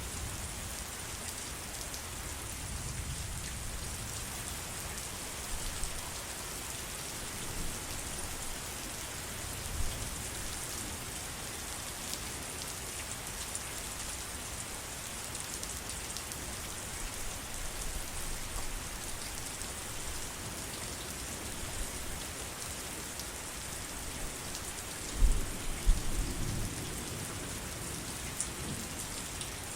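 Steady heavy rain falling as an even hiss, with a short low rumble of thunder near the end.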